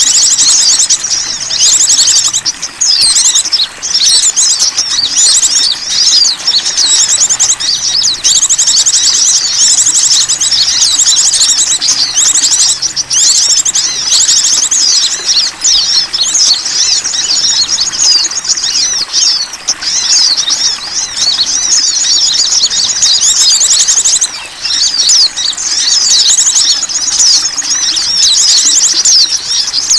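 Dense, loud chorus of small songbirds: many overlapping high chirps and rapid trills with hardly a break, as in a lure call recording played to draw in small wild birds.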